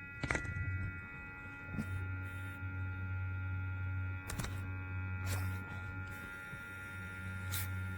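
Small electric pet nail grinder motor running with a steady hum, with a few light clicks.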